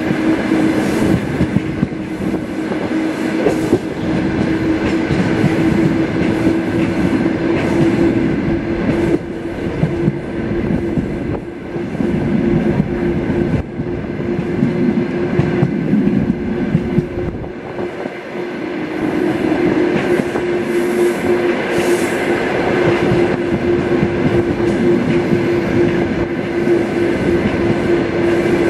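Diesel-hauled suburban passenger carriage running at speed, heard from its window: the wheels rumble steadily on the rails under a constant high hum.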